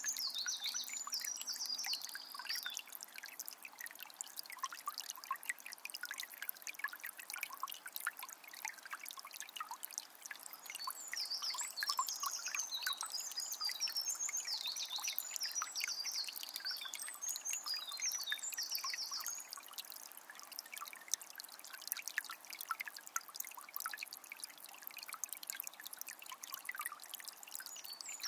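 Forest river flowing steadily with a babbling, trickling sound, while small songbirds sing in short, quick phrases at the start and again through the middle.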